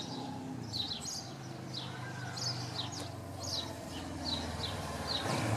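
A small bird chirping over and over, short falling notes about twice a second, over the low steady hum of a motorcycle engine that grows louder near the end.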